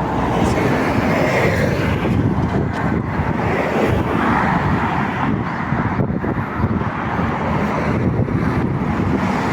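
Steady outdoor rumble of wind on the microphone and road traffic, with no clear single event standing out.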